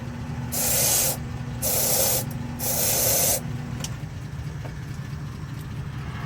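Four short hissing spray bursts, each well under a second, one after another in the first half, over a steady low engine-like hum.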